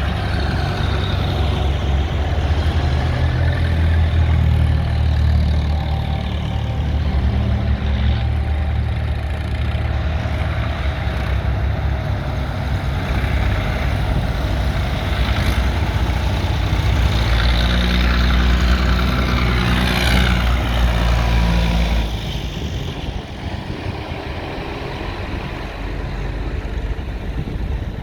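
Tractor engines running and passing, a heavy low engine note that drops off noticeably about 22 seconds in.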